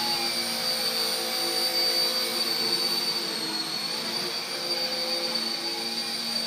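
Small electric RC helicopter (RC Era C032 UH-1 Huey) in flight: steady high motor whine over the hum of the spinning rotor blades, the pitch dipping slightly about halfway through.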